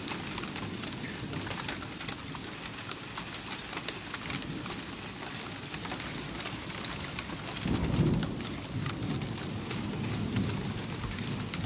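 Steady rain with many sharp drop taps, and a low rumble of thunder that swells about eight seconds in, the loudest moment, then rolls on more softly.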